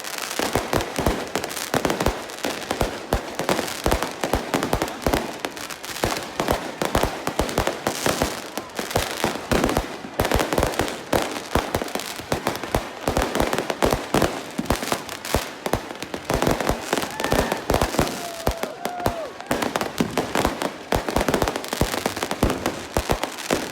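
Fireworks going off in a dense, continuous barrage of sharp bangs and crackles, many a second and without a break.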